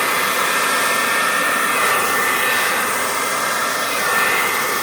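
Remington hand-held blow-dryer running steadily, a continuous rush of air with a faint high motor whine, blowing wet acrylic paint across a pour.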